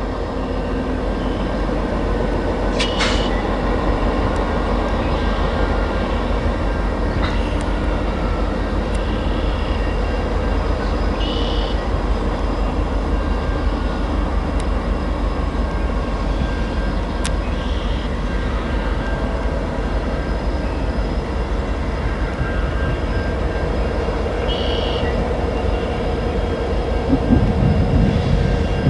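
Freight train rolling past at close range: a continuous rumble of steel wheels on rail with scattered clicks and a few brief high squeaks, growing louder near the end.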